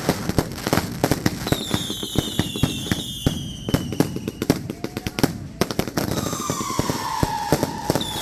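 Consumer fireworks cake going off: a dense run of crackling pops and bangs, with whistles that fall in pitch about a second and a half in and again near the end.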